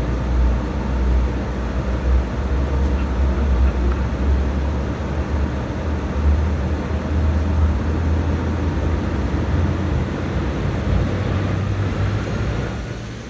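Jet airliner cabin noise: a loud, steady low rumble of engines and airframe, with a faint steady whine on top. Near the end the rumble eases and a faint rising whine comes in.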